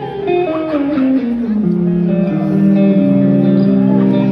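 Live rock band playing an instrumental passage led by guitars: a falling guitar line over the first second or so, then held notes and chords.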